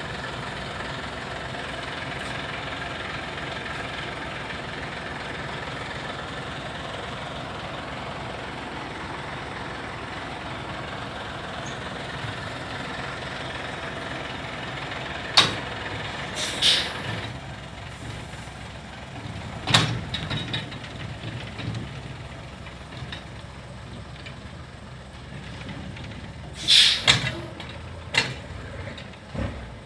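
Ten-wheel dump truck's diesel engine running steadily. From about halfway on come several short, loud hisses, with a close pair near the end.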